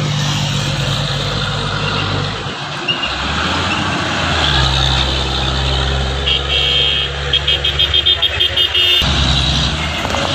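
Truck engine running steadily, dropping to a lower note about three seconds in and rising again near the end. From about six seconds in, a rapid run of short high beeps sounds over it.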